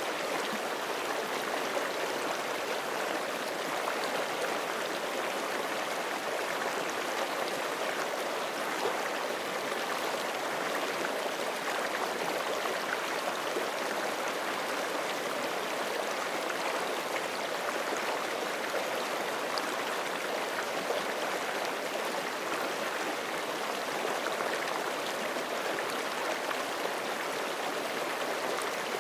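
Forest creek water flowing over rocks, a steady rushing and babbling that does not change.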